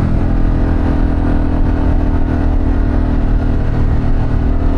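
2024 Harley-Davidson Pan America's Revolution Max 1250 V-twin running steadily at cruising speed through a Vance & Hines exhaust.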